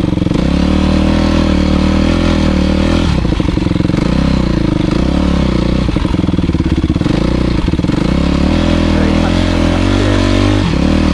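Motocross bike engine running hard, the revs stepping up and down several times with the throttle and gear changes.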